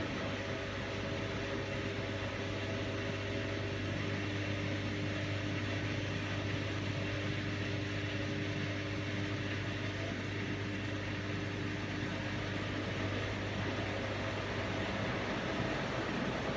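Washing machine running: a steady motor hum with a few faint whining tones over a constant whoosh of the turning drum. The hum and tones ease off a couple of seconds before the end.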